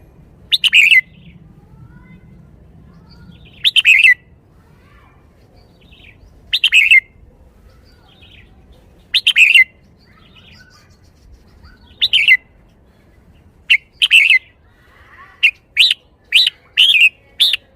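Red-whiskered bulbul singing short, loud phrases, one every two to three seconds at first, then five in quick succession near the end.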